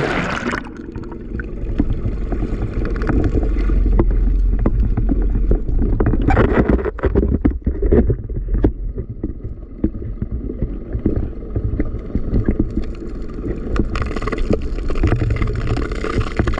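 Wind rumbling on the microphone aboard a small fishing boat, with water sloshing around the hull and a cluster of knocks and clatters between about six and nine seconds in.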